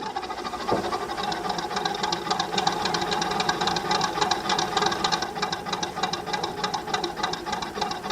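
Vintage Lister JP3 three-cylinder diesel engine running steadily, with a rapid, even mechanical clatter.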